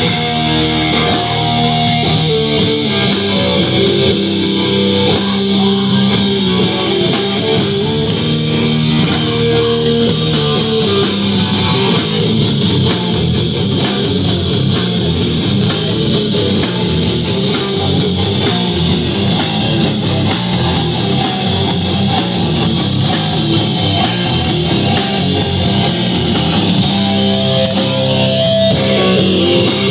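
A live rock band playing loud and steady, with distorted electric guitar, bass and drums.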